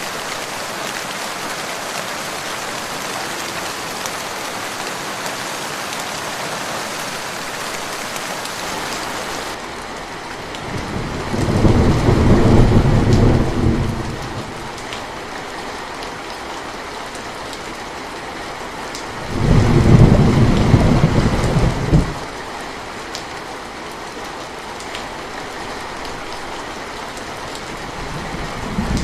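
Steady heavy rain that turns to a softer, less hissy rain about a third of the way in. Thunder rumbles twice, each roll lasting two to three seconds and louder than the rain.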